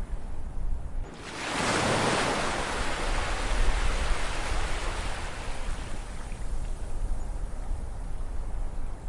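Ocean waves: a wave breaks about a second in with a rising rush of surf that slowly washes away over the next several seconds, over a steady low rumble of the sea.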